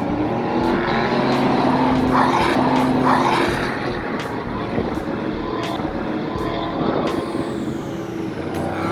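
Motor vehicle engines running steadily at a track, with a louder swell about two to three seconds in.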